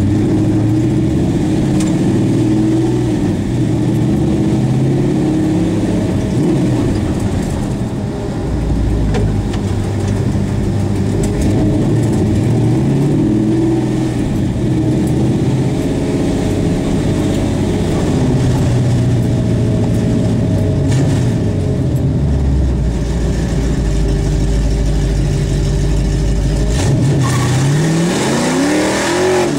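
A 1979 Chevrolet Malibu's 355 Vortec small-block V8, with a T56 six-speed manual, heard from inside the cabin while driving. The engine pitch rises and falls several times and climbs steeply near the end as it revs up under acceleration.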